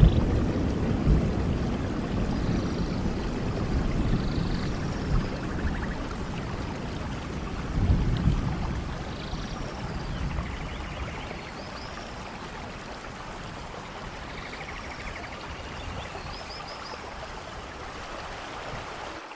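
Steady rain with rolling thunder that fades away, then swells once more about eight seconds in before dying down to the rain alone. Faint high chirps come and go above the rain.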